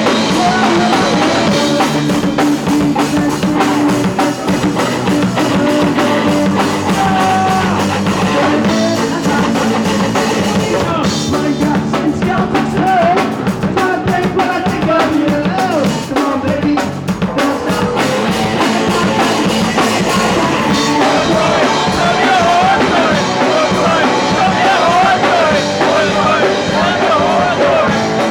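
Punk rock band playing live and loud: a full drum kit pounding under the rest of the band, with a voice singing over it in the later part.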